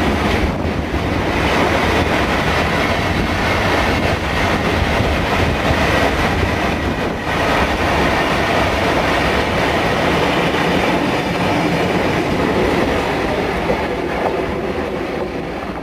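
Engineers' train of wagons rolling past on the track, with continuous wheel and rail noise that eases slightly near the end.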